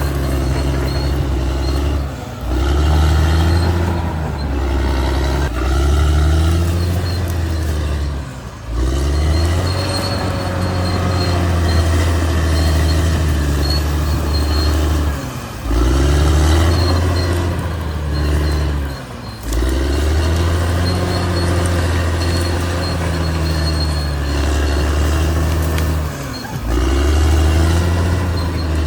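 Caterpillar D6R XL bulldozer's diesel engine working under changing load, its pitch sagging and recovering again and again, with a brief dip in loudness every few seconds.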